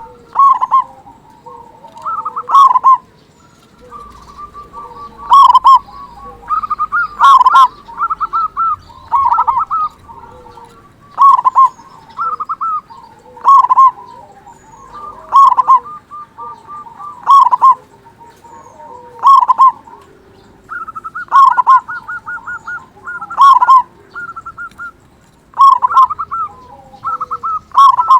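Zebra dove (perkutut) singing its loud cooing song: a quick trilled run of coos ending in a strong accented note, repeated about every two seconds with softer notes between.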